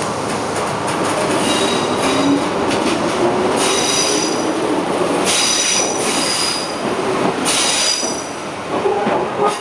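Shizuoka Railway 1000 series electric train moving off the siding, its wheels giving repeated high-pitched squeals over a steady running rumble.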